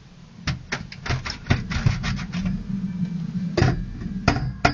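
Irregular sharp knocks and clatters of hard objects being shifted about, many in the first two seconds and a few more near the end, over a low steady hum.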